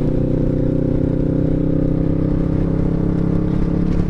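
Kawasaki Vulcan S's 650 parallel-twin engine running steadily at cruising speed through an aftermarket Delkevic exhaust, loud, with a deep, even note.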